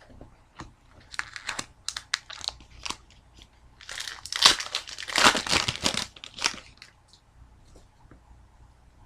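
Foil hockey card pack wrapper crinkling and tearing as it is handled: scattered crackles, then a louder stretch of dense crinkling for about two and a half seconds in the middle, then only faint ticks.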